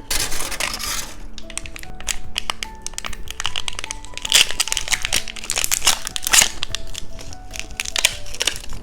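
Plastic snack wrapper crinkling and crackling in quick irregular clicks as it is handled and unwrapped, over soft background music.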